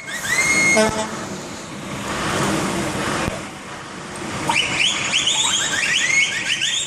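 Vehicle horns honking in a wedding convoy: one horn rises and holds briefly at the start, then from about two thirds of the way in many short toots follow in quick succession over the running vehicles.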